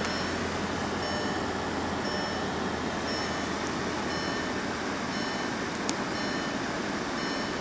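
2008 Audi S6's V10 idling steadily while it warms up from a cold start, heard from inside the cabin. A dashboard warning chime beeps about once a second over it, with a single click late on.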